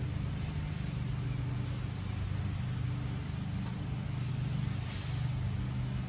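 Steady low hum of a running motor, even throughout, over a faint hiss.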